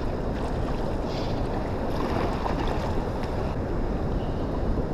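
Steady rushing noise of wind buffeting the microphone, over the sound of moving water.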